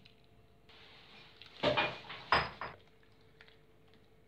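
Bowl of freshly churned butter and cold wash water being handled: two short knocks or clatters about 1.6 and 2.4 seconds in, over a faint hiss of water.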